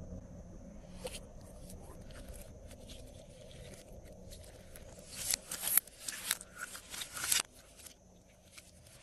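Glossy slime being handled, with ingredients mixed in: faint crackling at first, then a run of sharp crunchy crackles and pops from about five to seven and a half seconds in.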